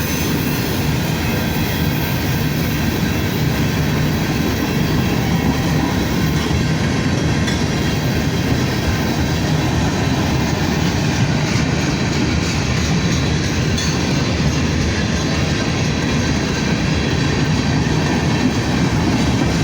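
Freight train's cars rolling steadily past on the rails, a continuous loud rumble and clatter of wheels, with faint high wheel squeal in it.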